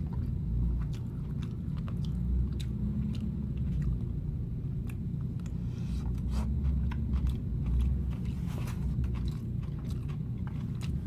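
A person biting and chewing food close to the microphone, with scattered small wet mouth clicks and crunches, over a steady low hum.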